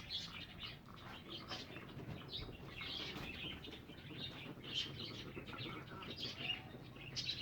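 Caged birds chirping and chattering, many short high calls overlapping without a break.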